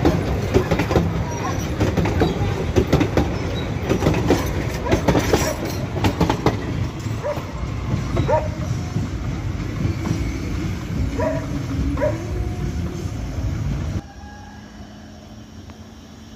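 Wooden passenger coaches of a 0.76 m narrow-gauge train rolling past at close range: a loud rumble with wheels clacking rapidly over rail joints and the level crossing, easing off as the train moves away. About 14 seconds in the sound drops suddenly to a much quieter outdoor background.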